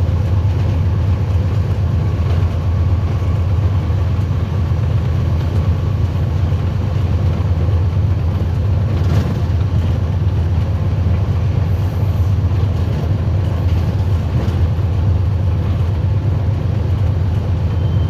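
Train running with a steady, loud low rumble, with a few faint clicks.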